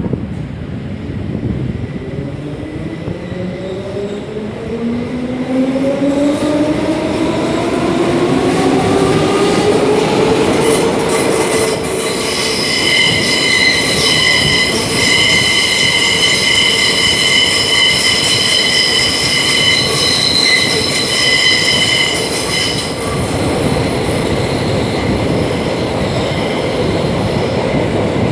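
Class 472 S-Bahn electric multiple unit heard from inside as it accelerates: the traction drive's whine rises steadily in pitch over the first ten seconds or so. From about twelve seconds in, the wheels squeal with a high, steady, many-toned screech that stops about eleven seconds later, over the rumble of the running train.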